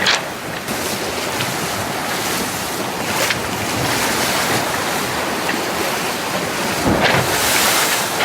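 IMOCA 60 racing yacht sailing fast: a steady rush of water along the hull and wind on the microphone, with a louder surge of spray about seven seconds in.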